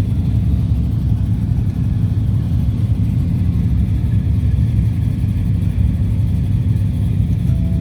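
Car engine running steadily with a deep, even low-pitched sound and no clear revs.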